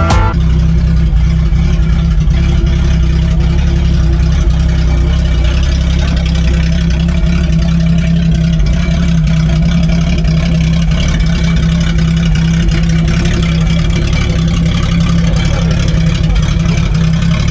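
Car engine idling steadily, a constant low rumble.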